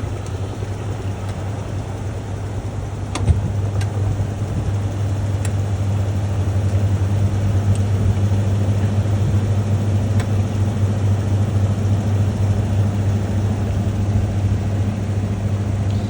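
National NA9450PN compact pulsator washing machine running, a steady motor hum with a sharp click about three seconds in, after which it runs slightly louder.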